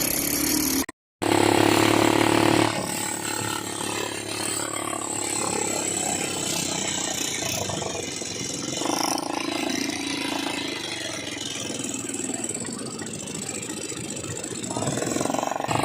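ATV engine running steadily while riding, rising and falling a little in loudness. About a second in, the sound cuts out briefly, then comes back louder.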